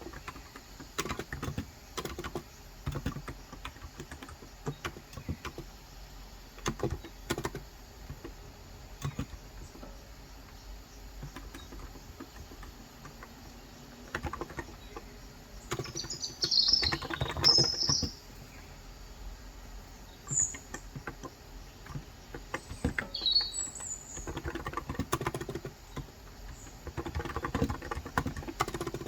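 Typing on a Cox Endeavour electro-capacitive (35 g) tenkeyless keyboard: scattered keystrokes with faster runs in the second half. A few short bird chirps come in about halfway through.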